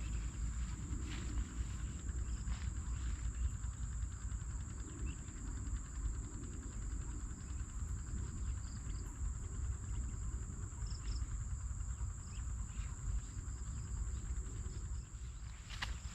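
Insects trilling in one steady high-pitched tone, over a low rumble and a few faint clicks.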